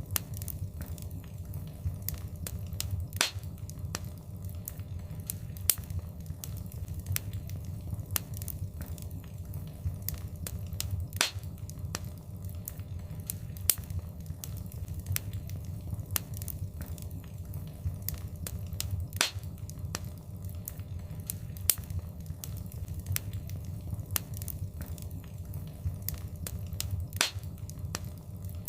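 Wood fire crackling: frequent sharp pops and snaps over a steady low sound of the flames. The loudest pops come back at the same spacing about every eight seconds, the mark of a looped recording.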